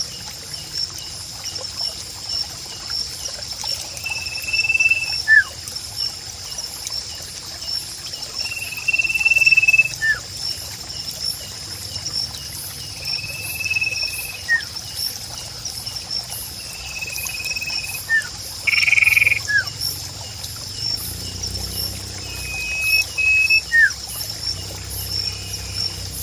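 Sirpu bird calls repeated about every four seconds: a short, steady high whistle and then a quick upswept chirp. Under them runs a steady, high pulsing trill over a soft trickling-water background.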